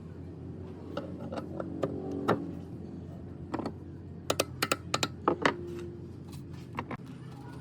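Sharp metallic clicks and clinks, like tools and metal parts being handled, about a dozen strikes bunched in the middle, over a steady low hum.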